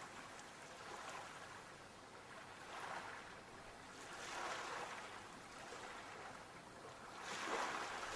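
Sea waves washing in, a rush of surf that swells and fades several times, with the biggest wash near the end.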